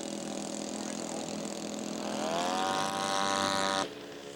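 Radio-controlled scale model airplane's engine running, rising in pitch about two seconds in as the throttle is opened on a touch-and-go, then holding steady and louder until it cuts off suddenly near the end.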